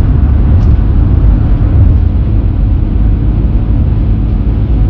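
Steady loud rumble of a car driving along the road: road and wind noise from the moving vehicle.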